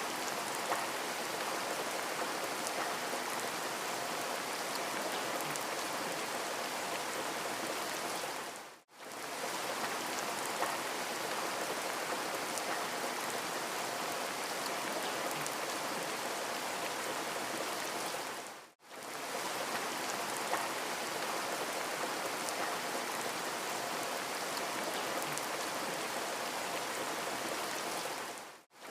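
Steady rain falling, an even hiss of drops. It fades out to silence and straight back in about every ten seconds, twice and again at the very end, as a short rain recording loops.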